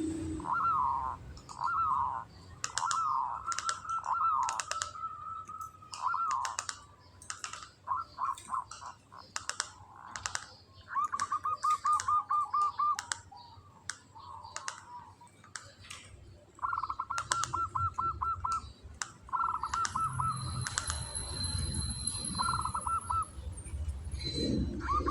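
Local zebra dove (perkutut) singing: repeated cooing phrases at one pitch, several of them run together as quick rattling trills ('ngretek'), with sharp clicks scattered between the phrases.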